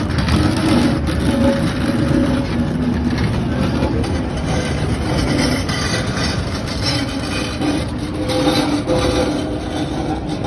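Narrow-gauge railroad cars rolling past: a steady rumble and rattle of wheels on the rails and of the cars' running gear.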